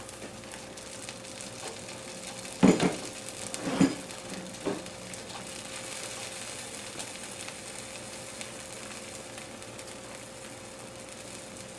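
Egg fu yung patties frying in oil in a cast-iron skillet: a steady sizzle with faint crackling. Three brief knocks come about three to five seconds in.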